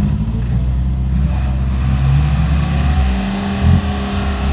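Truck engine running and revving, its pitch shifting up and down, with a short loud knock about three and a half seconds in.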